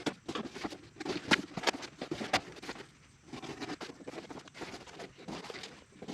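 Irregular clicks and scraping as metal parts are handled and worked loose inside a pickup truck door, where the power window regulator is being removed.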